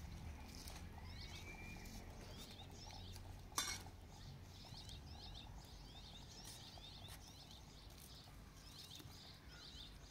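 Small birds chirping in quick, repeated short calls over a faint low rumble, with a single sharp knock about three and a half seconds in.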